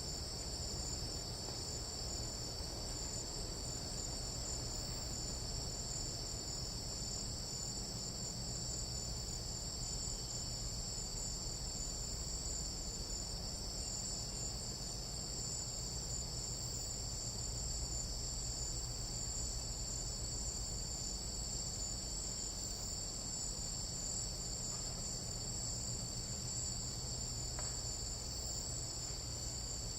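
Chorus of jungle night insects, several steady high-pitched trills going on without a break, over a low steady rumble.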